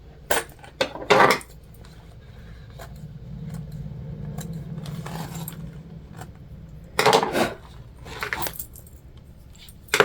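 Sewing scissors snipping and clinking in short clusters, about a second in and again around seven seconds, with a low steady hum between them.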